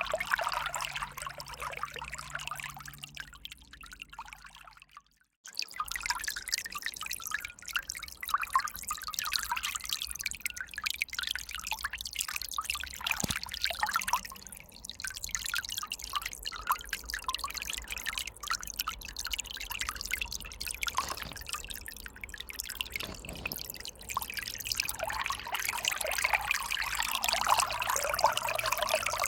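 River water flowing and trickling. The sound fades and drops out almost to silence about five seconds in, then comes back abruptly and runs on.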